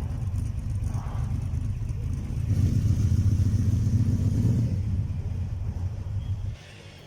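A classic car's engine running with a deep, steady rumble, growing louder for a couple of seconds midway, then cutting off suddenly near the end.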